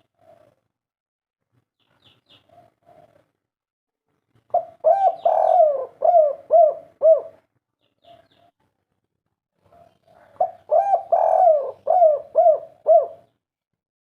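Spotted dove (tekukur) singing its 'kuk 3' cooing song: two loud phrases, each a longer coo followed by a quick run of short, arching coo notes. Soft, quieter coos come between the phrases.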